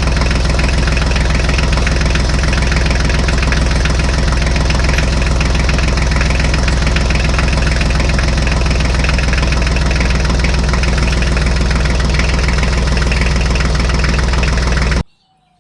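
Heavy diesel engine, as on a JCB backhoe or tractor, idling steadily with a rapid knocking beat, then cutting off abruptly near the end as the engine stops.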